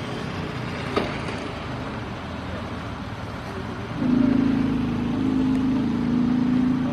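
Boeing 737-800's CFM56-7B jet engines running for takeoff. About four seconds in the sound grows louder, with a steady low hum, as thrust comes up for the takeoff roll.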